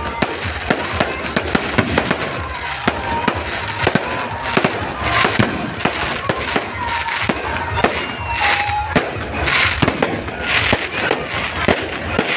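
Fireworks going off in a rapid, irregular barrage of bangs and crackles, with a few thin whistling tones among them.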